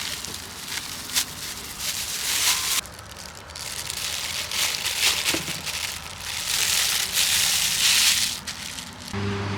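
Crunching, crumpling noise with sharp crackles, in two long spells: the first stops near 3 s, and the second starts half a second later and stops shortly before the end.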